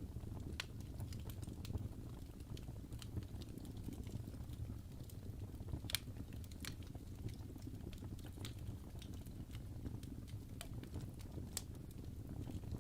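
Wood fire burning in a fireplace: a steady low rumble of flames with scattered sharp crackles and pops, the loudest pop about six seconds in.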